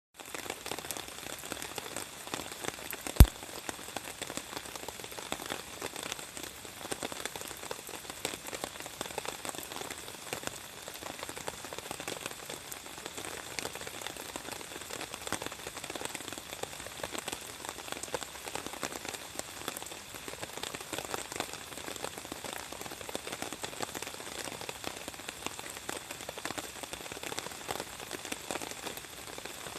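Campfire wood burning, crackling with a dense, steady patter of small pops, and one sharp, loud pop about three seconds in.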